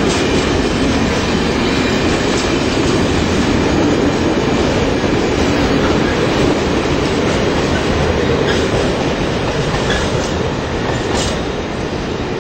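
Freight train rolling past: a loud, steady rumble of wheels on rails with a few faint clicks, easing off slightly near the end.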